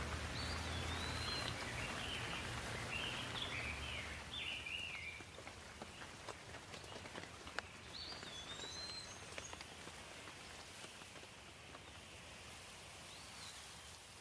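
Steady rain hiss with birds chirping over it, a quick run of chirps in the first few seconds and a few more calls later. A low rumble stops and the whole sound drops in level about four seconds in, leaving the rain with scattered sharp ticks of drops.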